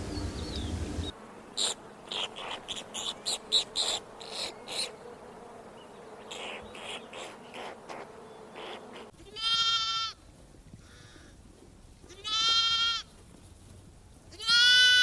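A run of short, sharp clicks and taps, then three long, steady bleats from a farm animal about two and a half seconds apart. The last bleat is the loudest and longest.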